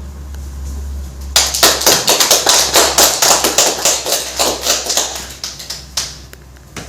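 A small group of people clapping. It starts abruptly about a second and a half in and fades out by about six seconds.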